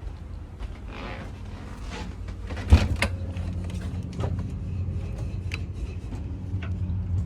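A steady low hum from a running engine or motor, with scattered mechanical clicks and knocks. A sharp knock comes a little under three seconds in, and another about a second later.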